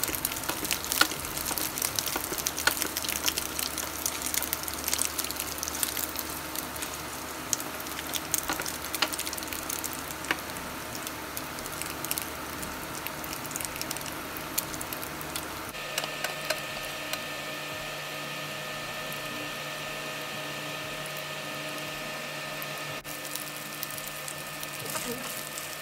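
Sardine omelette patty frying in shallow oil in a nonstick frying pan: a steady sizzle with dense crackling and popping, busiest in the first half. About 16 seconds in a low hum drops away and a faint steady whine of several tones sets in under the sizzle.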